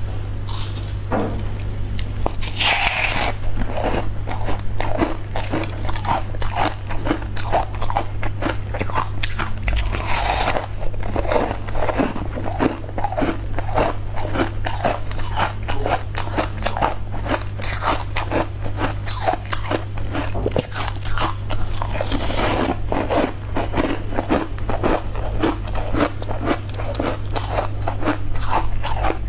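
Close-miked chewing and mouth sounds of someone eating soft filled sponge cake: a dense run of wet clicks and smacks, with a few louder, longer bursts about three, ten and twenty-two seconds in. A steady low hum runs underneath.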